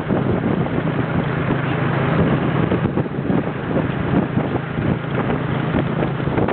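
Motorcycle engine running at a steady speed while riding, with heavy wind buffeting the microphone.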